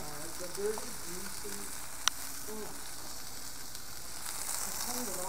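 A cheese-topped hamburger patty sizzling steadily in a cast iron skillet, with a single sharp click about two seconds in.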